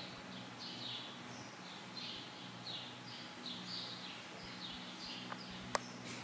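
A bird chirping faintly and repeatedly, short falling chirps about twice a second, over a steady low hum. A single sharp click near the end.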